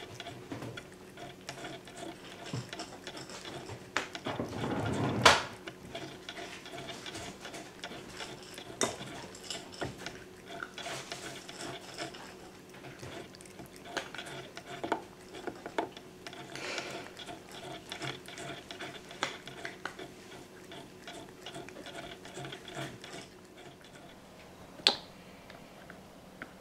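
Light irregular clinks and taps of a water dish with faint watery sounds, as a cat drinks. A louder rustling rush comes about five seconds in, and a single sharp click near the end.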